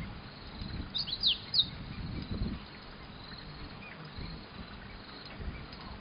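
A bird gives a quick run of four or five sharp, falling chirps about a second in. Low rumbling noise runs underneath, briefly stronger about two seconds in.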